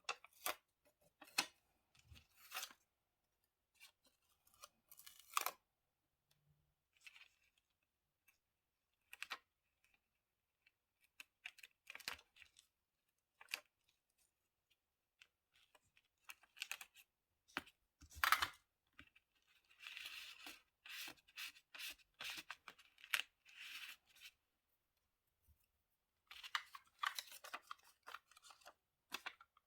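Close-up paper-crafting sounds at a desk: paper and stickers handled, with scattered soft taps and rustles. About 18 seconds in there is a louder knock of a tool such as scissors or glue tape being put down on the desk. A longer stretch of rustling and tearing runs from about 20 to 24 seconds.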